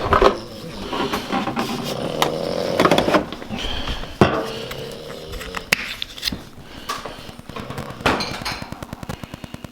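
Kitchen clatter: dishes and cooking things knocking and clinking, with several sharp knocks. Near the end a fast, even ticking of about six a second begins.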